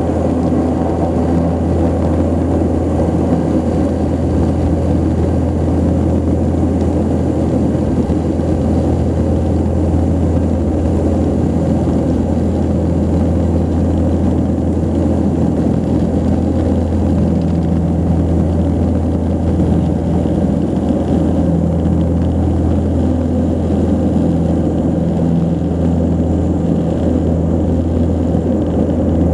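Twin Ivchenko AI-24 turboprop engines of an Antonov An-24 running steadily: a loud, even propeller drone with a deep hum and a few steady tones above it.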